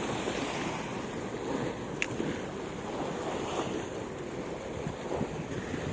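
Surf washing on the shore with strong wind buffeting the microphone, a steady rushing noise, with one sharp click about two seconds in.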